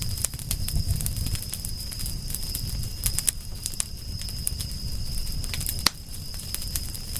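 Wood fire crackling, with frequent sharp pops and snaps and one louder pop near the end, over a low rumble of the flames. A steady high-pitched hum sits beneath it throughout.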